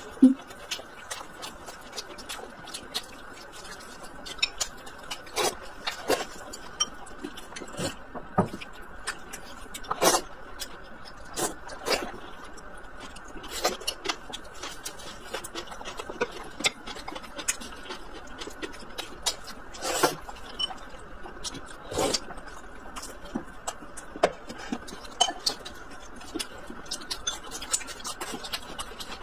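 Close-miked chewing and mouth sounds from eating a pan-fried scallion pancake: irregular soft smacks and clicks every second or so over a steady low hiss.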